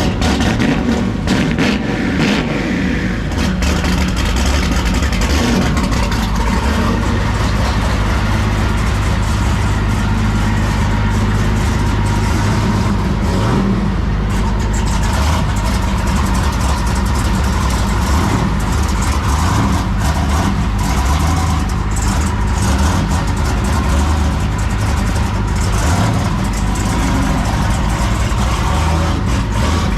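Car engine running steadily with a deep low rumble, close to the microphone and without strong revs.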